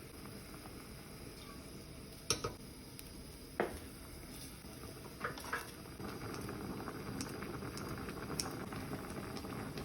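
Pot of Vietnamese sour soup (canh chua) boiling, with a steady bubbling that grows denser and louder about six seconds in. A few sharp clinks of a utensil or lid against the pot come about two and a half and three and a half seconds in, and a couple more a little past five seconds.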